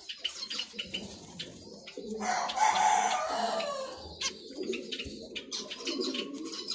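Cage birds calling: rapid short high chirps, most likely zebra finches, over low dove or pigeon cooing. About two seconds in, a louder call falling in pitch lasts about two seconds and sounds like a rooster crowing.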